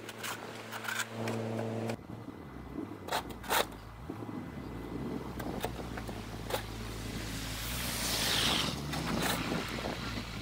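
BMW 328 engine running as the car is driven out of a snowed-in parking spot, its pitch shifting about two seconds in. Two sharp knocks a little after three seconds, and a hissing rush near the end.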